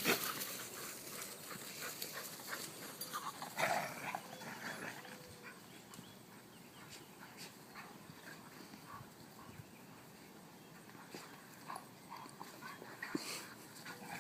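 Dogs moving about, with scattered scuffs and clicks and a louder sound about four seconds in.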